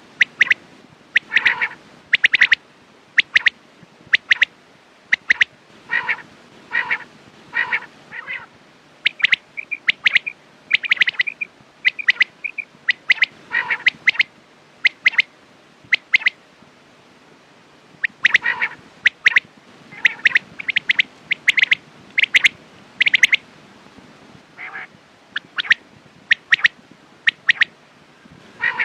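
Quail calling over and over: short, sharp notes in quick clusters of two or three, repeated about every second, with a pause of about two seconds around the middle.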